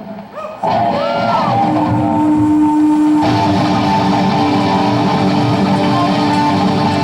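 Live rock band playing with electric guitar. It drops out briefly at the start, then comes back in with a guitar line that bends in pitch, and the full band returns about three seconds in.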